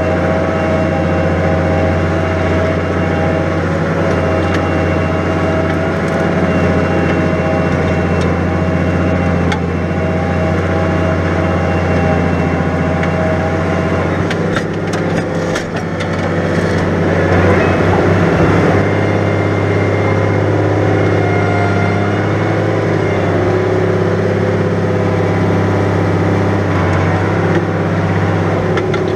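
New Holland 100-90 tractor's diesel engine running steadily under load while ploughing heavy wet ground. About halfway through, its note shifts and dips briefly, then picks up and settles again.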